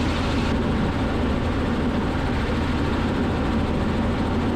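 Robinson R44 helicopter's engine and rotor noise in steady flight: an even, unchanging drone, turned down and heard through the cockpit intercom.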